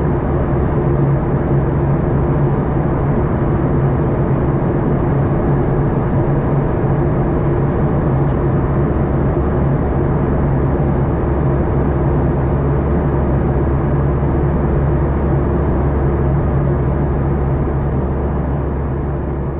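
Cabin noise of a Boeing 737-800 in flight: its CFM56-7B jet engines and the airflow give a steady low drone with a constant hum and a rushing noise, unchanging throughout.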